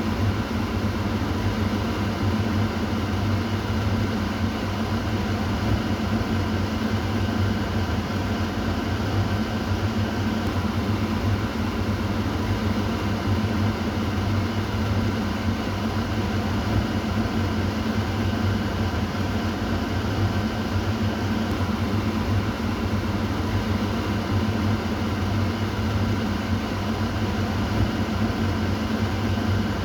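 Kitchen exhaust fan running steadily, a constant whooshing hum with a deep low drone and a faint whine over it.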